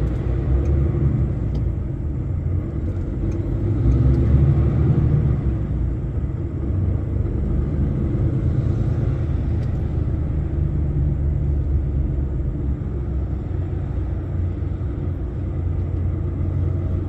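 Steady low rumble of a lorry's engine heard from inside the cab, swelling a little about four seconds in.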